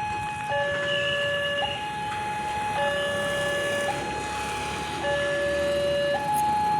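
A two-tone electronic siren alternating high and low, each tone held about a second.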